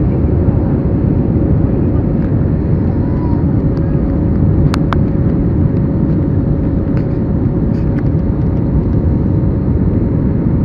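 Steady noise of a jet airliner cabin in flight, with one steady hum over the low roar and a couple of faint clicks about halfway through.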